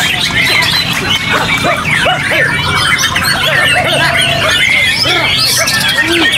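Several white-rumped shamas (murai batu) singing at once in competition: dense, overlapping whistled phrases and quick glides, over a low, steady background noise.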